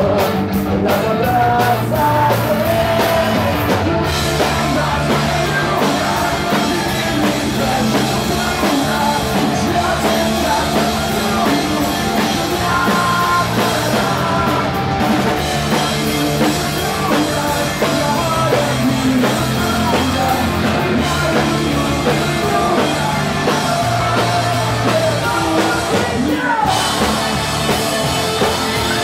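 Live pop-punk band playing loud and steady, with a drum kit, electric guitars and a sung melody.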